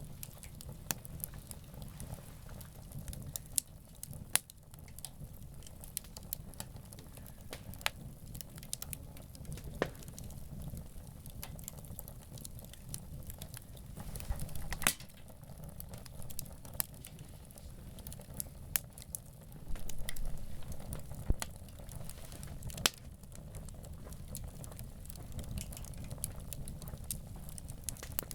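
Wood campfire crackling, with irregular sharp snaps and pops over a low, steady rumble and a few louder pops.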